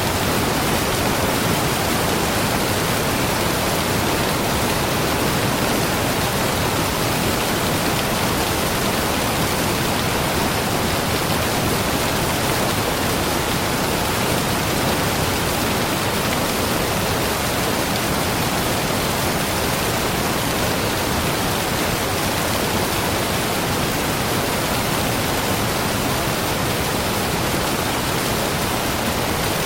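Waterfall pouring: steady, even rushing of falling water, unchanging throughout.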